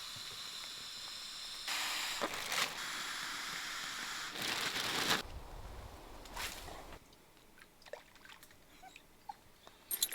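Water sloshing and splashing, loudest for a few seconds in the first half and then dying away, with a few light clicks near the end.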